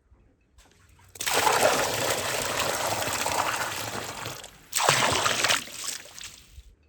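Water pouring in two spells: one runs about three and a half seconds, and a second, shorter one follows right after and tails off.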